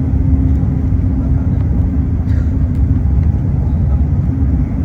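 Airliner cabin noise inside an Airbus A380: a steady low rumble of engines and airflow with a constant hum.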